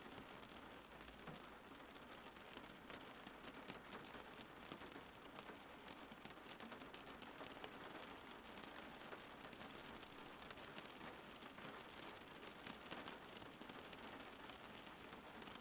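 Steady rain falling outdoors, a soft even hiss with fine scattered patter of drops.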